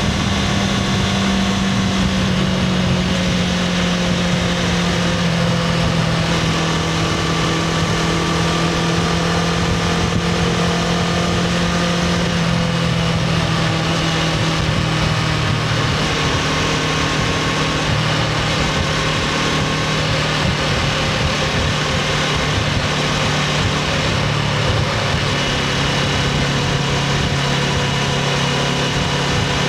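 Honda CBR500R's parallel-twin engine on its stock exhaust, running steadily, its pitch sinking slowly and slightly over the stretch.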